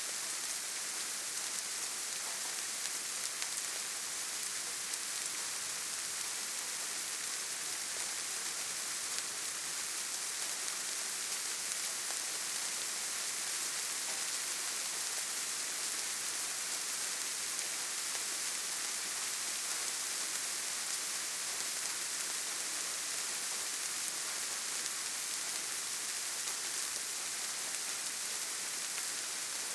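Steady forest rainfall: an even, high-pitched hiss of falling rain with a fine patter of drops, unchanging throughout, with no thunder or other events.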